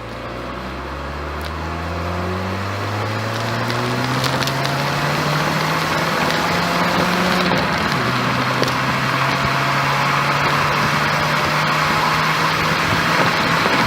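2008 Ford Fiesta 1.2 16-valve engine on its stock exhaust, pulling through a gear. The note rises steadily for about seven seconds, drops with a gear change, then holds steady as road noise builds.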